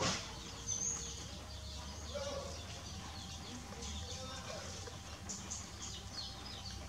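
Small birds chirping on and off in short high calls, over a faint low rumble, with a brief sharp knock right at the start.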